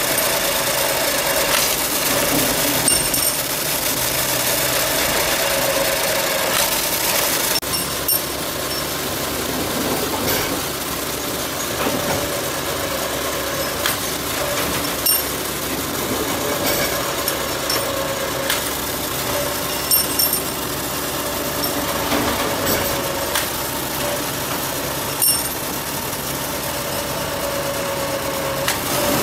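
Forging-shop machinery running steadily: a continuous mechanical hum with a wavering tone, broken by occasional sharp metallic knocks. The sound changes character about seven seconds in.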